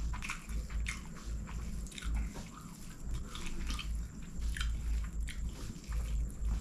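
Close-miked chewing of chicken fried rice: irregular wet mouth clicks and smacks, with soft rustling as fingers gather rice on the paper.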